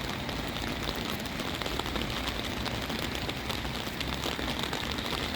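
Steady rain falling, with a dense scatter of small drop ticks over a constant hiss.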